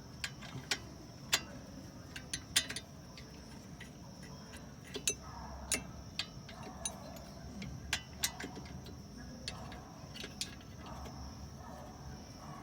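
Irregular sharp metallic clicks and taps of a wrench and hand tools being handled on a car's disc-brake caliper, coming in small clusters.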